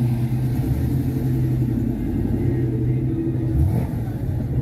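A car engine idling, a steady low-pitched running sound, with a brief change in pitch a little more than three seconds in.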